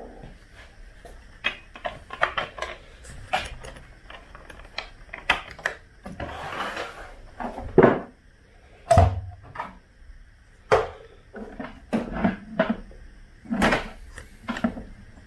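Irregular knocks and clatters of hard objects being handled, a dozen or more separate strokes of varied loudness.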